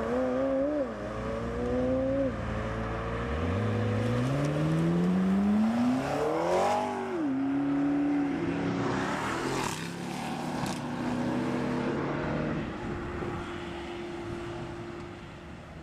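Performance car engine accelerating hard, its pitch climbing and then dropping suddenly at gear changes, about a second in and again at about seven seconds. Engine note settles and fades toward the end.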